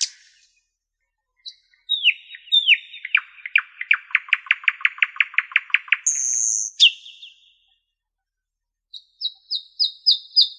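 Songbird singing: after a short pause, a couple of downslurred whistles lead into a fast, even trill of about five notes a second, then a brief high buzzy note and a falling note. After another pause, a run of quick high notes comes in near the end.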